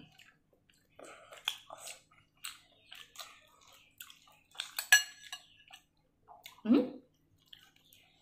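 Close-up chewing and wet mouth smacks from people eating rice, curry and soft potatoes by hand. There is a sharp clink with a short ring about five seconds in, as a metal spoon strikes a dish, and a brief voice sound near seven seconds.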